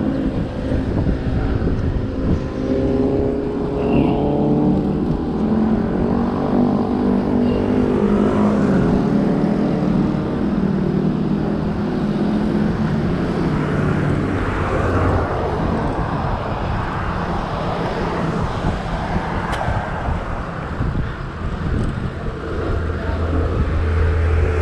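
Road traffic: a motor vehicle's engine running close by with a steady pitch, fading out about halfway through, over constant low road noise.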